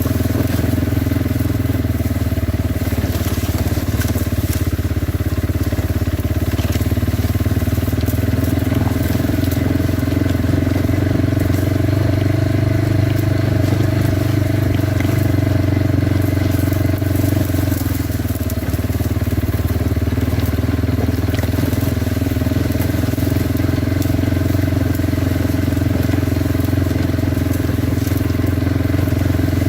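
Kawasaki Brute Force 300 ATV's single-cylinder four-stroke engine running steadily under way, easing off briefly a little past halfway.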